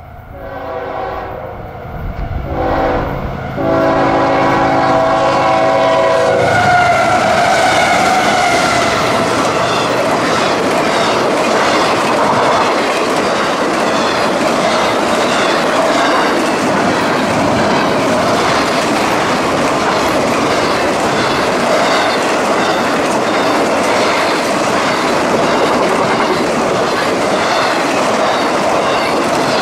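Freight train locomotive horn sounding three blasts, the last one long, then the train rolling past with a steady clickety-clack of wheels over the rail joints.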